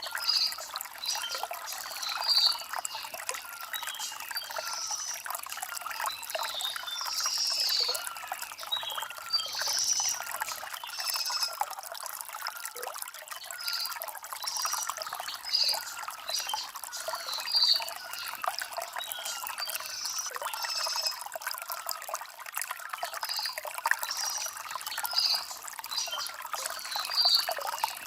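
Shallow stream trickling and gurgling over river stones, with short high chirps recurring every second or two.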